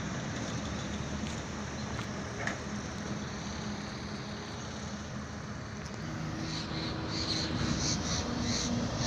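Truck engine and road noise, steady, with a low hum joining in about two-thirds of the way through and a run of short high-pitched chirps near the end.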